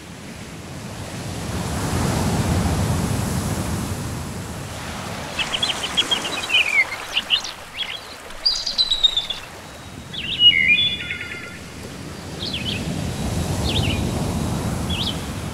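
Nature-sound recording of sea waves washing in, swelling twice, with small birds chirping and trilling over them from about five seconds in.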